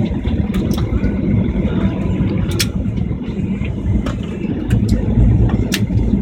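Airliner rolling on the runway after touchdown: a steady low rumble from the tyres and engines, with scattered sharp clicks and rattles.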